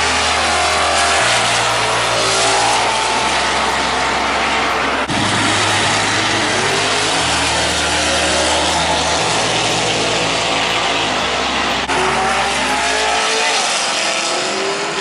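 Drag-racing muscle car engines running loud at high revs with tyre noise, their pitch rising and falling.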